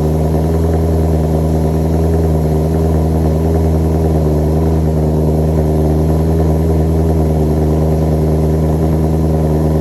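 BMW E90 M3's V8 through a custom exhaust, heard from inside the cabin, running at a steady engine speed with an even, unchanging drone.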